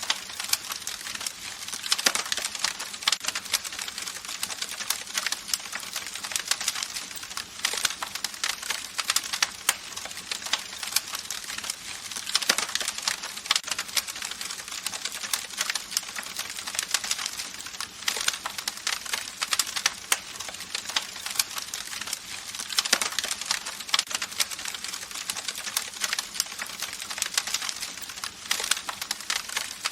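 Campfire crackling: wood burning with a steady hiss and a dense run of irregular pops and snaps.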